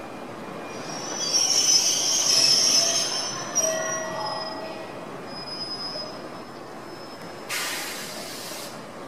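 Izuhakone Railway 7000 series electric train rolling slowly into the platform, squealing high-pitched for a few seconds as it slows to a stop. A short burst of hiss follows near the end.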